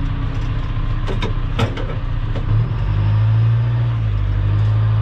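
Diesel engine of a heavy earthmoving machine running, with a few sharp knocks about a second and a half in. The engine note grows louder about two and a half seconds in and holds there.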